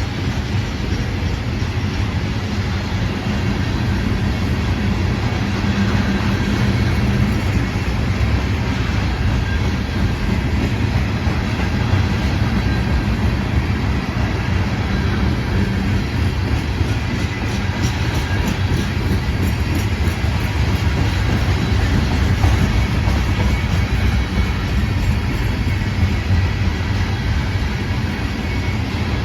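Norfolk Southern freight train rolling past, a steady rumble of wheels on rail with some clickety-clack.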